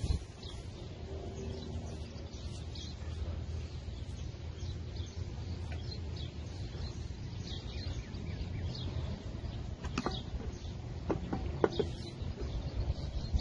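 Birds chirping over a low steady background rumble, with a few sharp clicks near the end.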